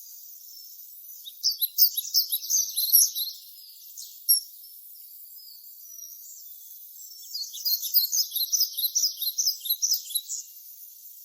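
A songbird singing two bouts of rapid, high chirping notes, each note a quick downward slide, with a pause of a few seconds between the bouts.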